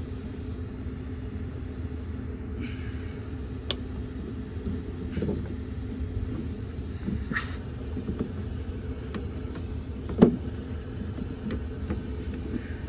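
Steady low mechanical hum from a running machine, with scattered clicks and knocks of parts being handled; the sharpest knock comes about ten seconds in.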